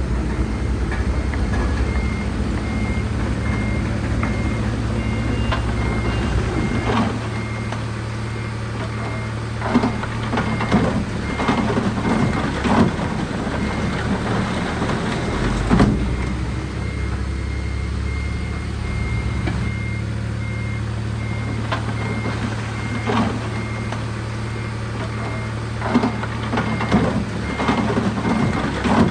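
Diesel engine of heavy earthmoving equipment running steadily under a repeating backup alarm beep, the signal that the machine is reversing. Sharp clanks and knocks come in now and then, mostly in the middle and near the end.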